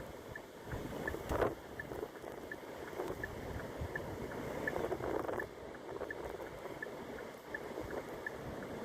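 Wind blowing and buffeting the microphone in gusts, with a low rumble. A faint high tick repeats evenly, about two to three times a second.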